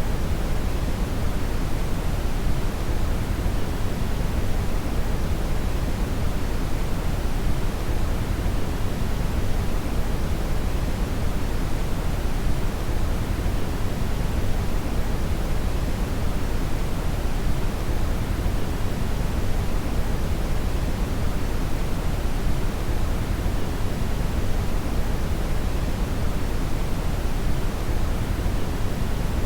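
Synthetic brown (red) noise: a steady, even rumbling hiss, strongest in the bass and thinning toward the treble, with no change throughout.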